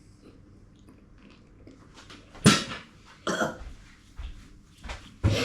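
A person coughing from chilli burn after eating something extremely hot. There are two sharp coughs about halfway through, the first the loudest, some smaller ones after them and another near the end.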